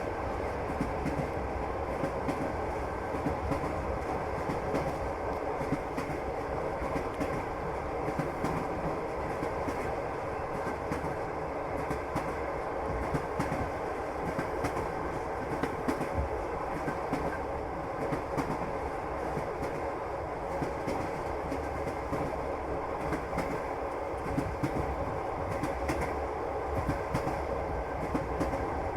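Passenger train carriage in motion: a steady rumble from the wheels on the rails, with the clickety-clack of the wheels going over rail joints.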